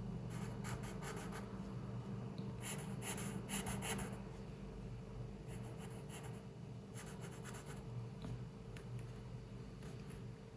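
Drawing strokes scratching on paper in short bursts of quick strokes with pauses between, over a steady low room hum.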